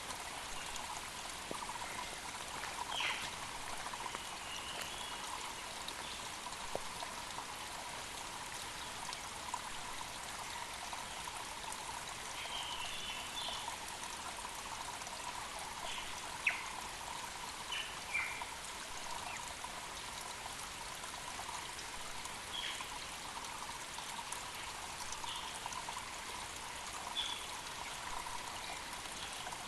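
Mountain creek running steadily over rocks, with scattered short bird chirps above it.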